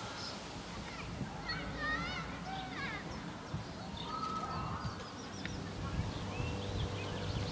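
Small birds singing outdoors: many quick chirps and warbling phrases, with a low wind rumble on the microphone underneath.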